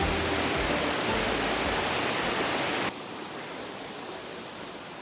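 Steady rushing of a river, with the tail of background music fading out in the first two seconds. About three seconds in, the rush drops suddenly to a quieter, duller level.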